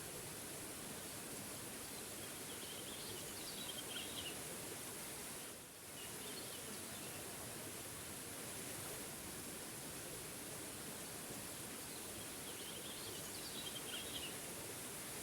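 Small forest waterfall rushing steadily. A songbird sings short chirping, trilling phrases over it, about three seconds in and again near the end, with a fainter call in between.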